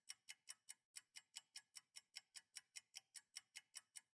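Faint, even ticking, about five quick ticks a second, with a brief gap about a second in.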